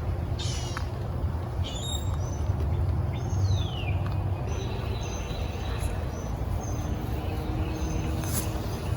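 Honeybees buzzing steadily around the opened hive, with a few short bird chirps and one falling bird whistle about three and a half seconds in.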